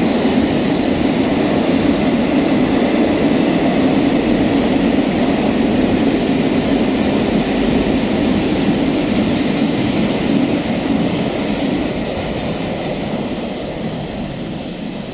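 Freight train rolling past, a steady rumble of wheels on rail that eases off over the last few seconds.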